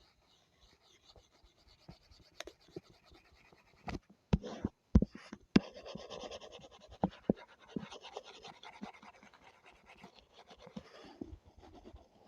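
A drawing tool scratching over the drawing surface in strokes, with a few sharp taps and knocks about four to six seconds in, then a longer stretch of steady scratching.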